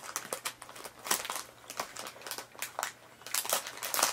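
Plastic candy bag crinkling and rustling as it is handled, in short irregular crackles.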